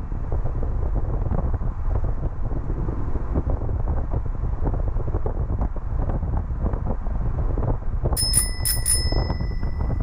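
Steady road and rain noise heard from inside a moving Honda N-VAN on wet roads, a low rumble with crackle. About eight seconds in, a small bell rings four quick times and its tone rings on briefly.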